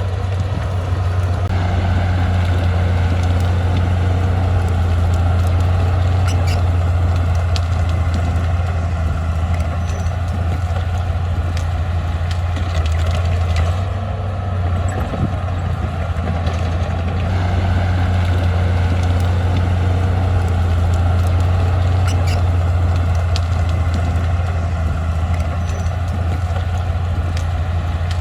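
Diesel engine of a D20P bulldozer running steadily under working load. The note swells and eases twice, with a few faint clanks over it.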